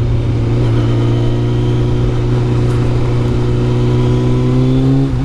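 Kawasaki ZZR600's inline-four engine running steadily under throttle, its pitch climbing slowly as the motorcycle gains speed, then dipping right at the end. A low rumble of wind buffeting sits underneath.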